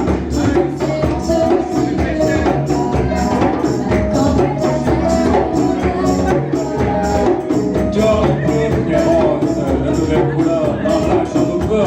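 Live band music with a steady, fast percussion beat.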